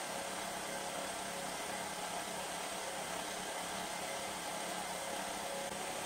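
A workshop power tool or electric motor running steadily, a constant whirring hiss with a faint steady hum.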